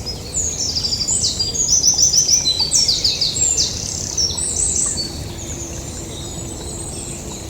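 A small songbird singing one long, fast song of high trills and rapidly repeated notes, lasting about four and a half seconds, over a steady low rushing background.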